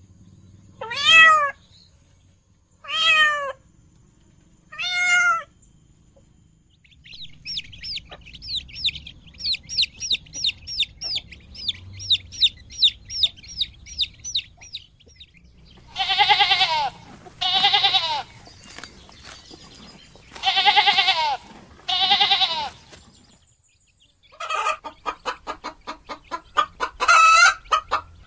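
A string of small-animal calls: three kitten meows, then a run of rapid high chick cheeps, then four loud drawn-out calls and a fast series of hen clucks near the end.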